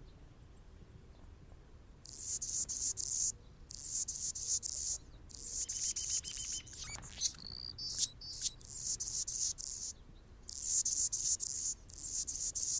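Anna's hummingbird singing: phrases of high, scratchy, buzzy notes repeated with short pauses, starting about two seconds in, with a few thin squeaky sliding notes in the middle.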